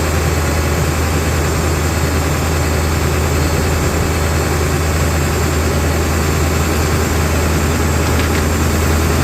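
A tow truck's 7.3-litre V8 engine idling steadily, still cold just after a cold start in freezing weather.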